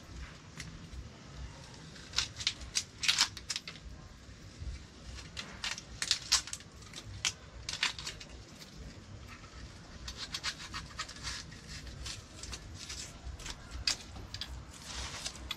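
Knife cutting an onion, an irregular run of sharp clicks and taps, some in quick clusters.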